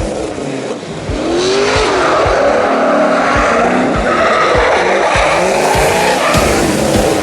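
Drift cars on track: engines revving up and down repeatedly while their tires squeal and skid through the slide, growing louder about a second in.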